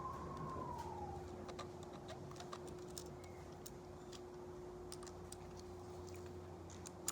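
Faint, scattered light clicks and ticks of a hex key turning a grip screw into a paintball marker's frame, over a steady low hum.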